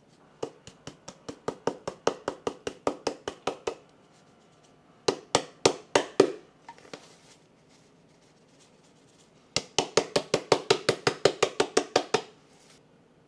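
Knife chopping on a cutting board: three runs of quick, even strokes, about six a second, with short pauses between them.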